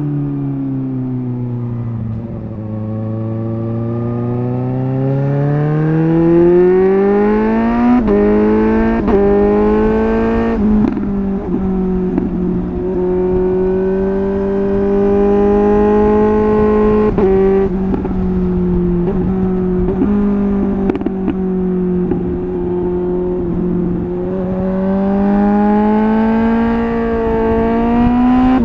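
Suzuki GSR 750's inline-four engine through an MIVV Double Gun exhaust, pulling hard with the pitch climbing, then dropping in quick steps at a run of upshifts about eight to eleven seconds in. It then holds a steady note at cruise before climbing again near the end, over a steady rush of wind.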